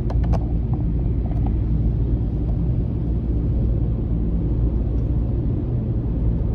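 Car driving on a road: a steady low rumble of engine and tyres, with a few light clicks just at the start.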